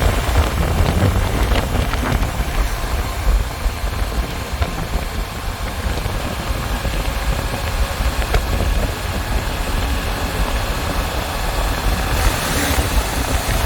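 Vehicle engine running steadily with a low rumble, under an even hiss of wind noise.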